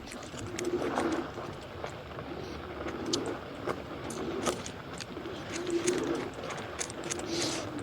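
A dove or pigeon cooing over and over, short low hoots about a second apart, with scattered sharp clicks and rattles.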